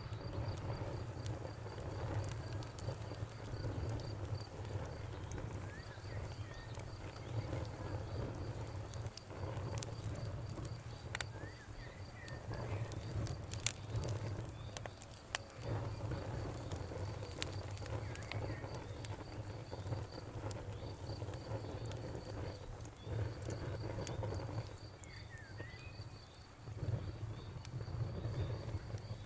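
Wood campfire crackling, with scattered sharp pops over a steady low rumble. A cricket chirps in a rapid steady pulse throughout, and a few short bird chirps come through.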